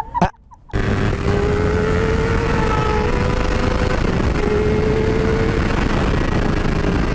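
Motorcycle riding at speed: the 2006 Honda CBR600RR's inline-four engine hums under a steady rush of wind noise. After a brief gap near the start, the engine note climbs slowly, drops about four seconds in, then holds steady.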